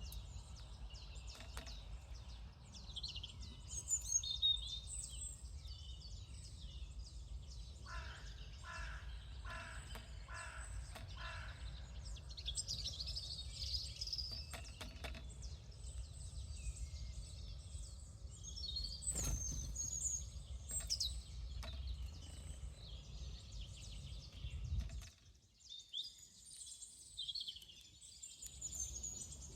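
Wild birds chirping and calling, with a run of five evenly spaced crow-like caws about eight seconds in. Underneath is a steady low rumble that drops away for a few seconds near the end.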